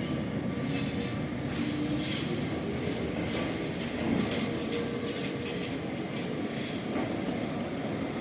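City tram running on street rails: a steady rumble, with a run of short clicks from the wheels about two seconds in that lasts several seconds.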